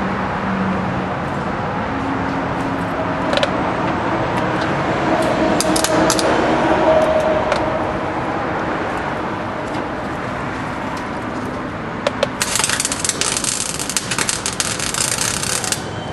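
Steady background noise, then near the end a burst of about four seconds of dense sizzling crackle from a welder laying metal on the pickup's cab corner patch. It cuts off sharply.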